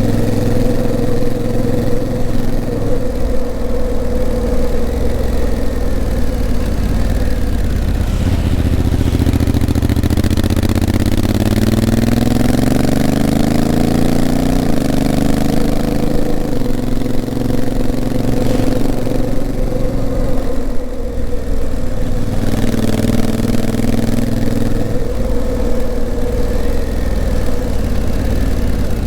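Honda CRF1000L Africa Twin's parallel-twin engine running under way. The pitch climbs steadily as it revs up through a gear, then drops suddenly about halfway through as the dual-clutch gearbox shifts up, and the engine settles back to a steady pace.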